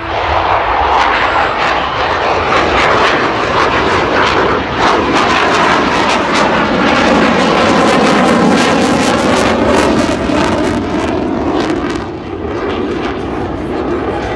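CF-18 Hornet fighter jet making a loud pass, its twin jet engines building to their loudest about halfway through with a sweeping, phasing roar as it goes by, then easing off near the end.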